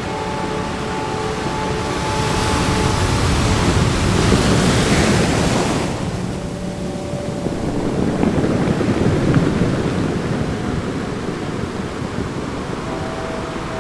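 Ocean surf: a wave swells to a crest about four to five seconds in and falls away at about six seconds, then a second, smaller surge follows. Soft held music tones sound faintly underneath at the start and again near the end.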